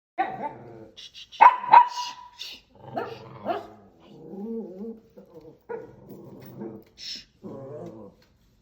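A dog barking and vocalising in a run of short calls, with the loudest sharp barks about one and a half and three seconds in and a drawn-out wavering call in between.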